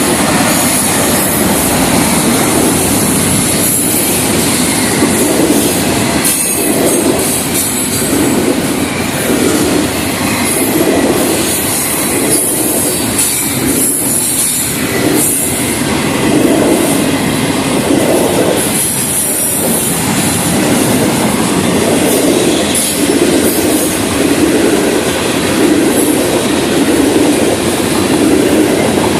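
Florida East Coast Railway freight train's cars rolling steadily past at close range: loud wheel rumble and clatter over the rails, with a high squeal coming and going.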